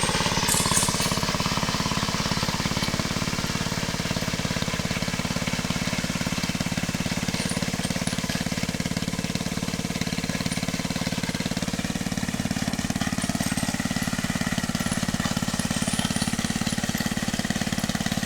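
An engine running steadily at one speed, with a fast, even pulse.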